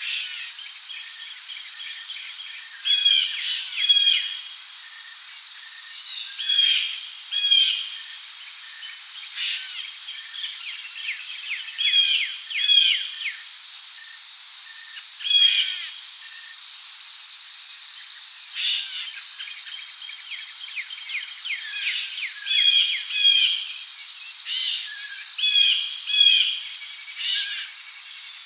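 Rainforest ambience: a steady, high-pitched drone of insects such as crickets under repeated bird calls, short chirping phrases often in pairs, coming every two to three seconds.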